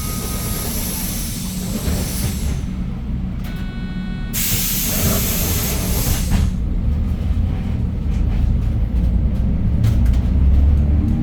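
Idling engine of a Hyundai New Super Aerocity CNG city bus, rumbling low throughout, with two long hisses of released compressed air from the bus's pneumatic system and a short electronic beep between them. In the second half the engine grows louder as the bus pulls away from the stop.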